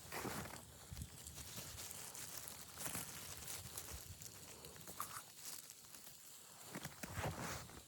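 Scattered soft crunches and rustles at an uneven pace over a faint hiss, with a short cluster of them near the end.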